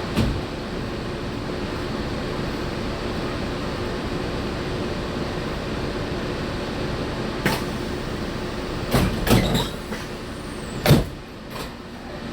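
Steady running noise inside a monorail car, with a few sharp knocks and clunks in the second half, the loudest about eleven seconds in. After that the running noise drops lower.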